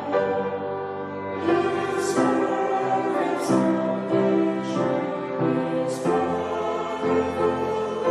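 Choral music: a choir singing slow, held notes.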